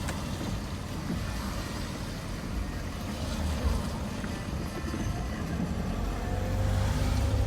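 Steady low rumble of road traffic, with a tone that slowly rises in pitch near the end, like a vehicle speeding up.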